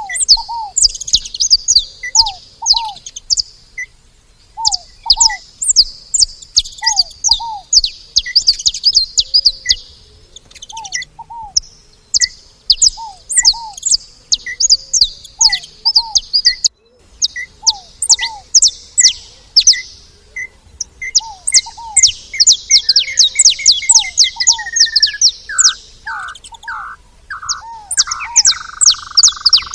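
Saffron finches chirping and calling in a rapid, overlapping chatter at a feeding spot, with a lower call repeating about once a second underneath. Near the end a falling whistle drops into a lower, steadier tone.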